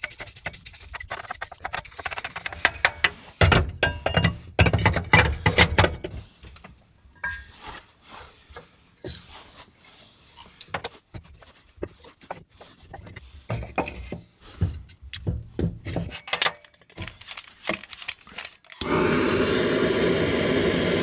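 Irregular knocks, clunks and light clinks of objects being handled, then near the end a steady mechanical running noise starts suddenly and continues.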